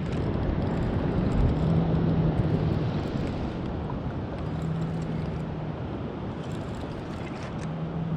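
Rushing wind and water noise on the microphone, loudest in the first few seconds, with a low steady hum that comes and goes three times.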